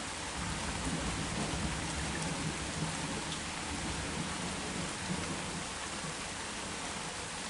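Heavy rain falling steadily, with a low rolling rumble of thunder that builds just after the start and fades out about six seconds in.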